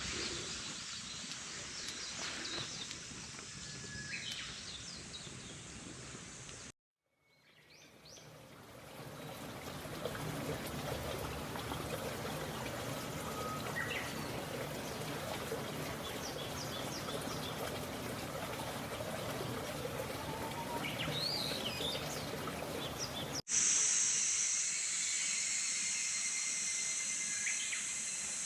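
Outdoor ambience: birds chirping over a steady rushing noise. It cuts out completely for about a second, and near the end a steady high-pitched hiss comes in with the birds.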